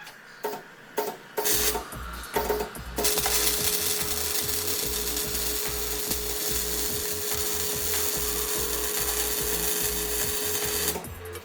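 A metalworking tool on steel: a few short clicks and bursts, then about eight seconds of steady hissing with one held tone, stopping near the end. Background music with a low, regular beat runs underneath.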